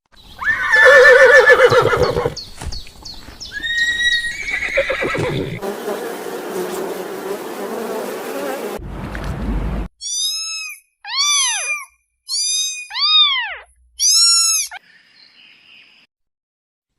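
A run of different animal calls: a loud wavering whinny-like call first, then mixed noisier animal sounds, then five short calls that each arch up and down in pitch.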